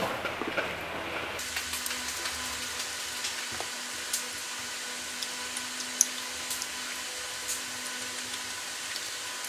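Close-miked eating sounds: a person chewing a mouthful of tripe, with scattered small clicks of a fork on the plate, the sharpest about six seconds in, over a steady hiss and faint hum.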